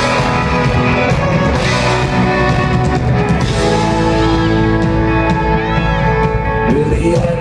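Live band playing an instrumental passage with guitars, the notes held long and steady, before the vocal line begins.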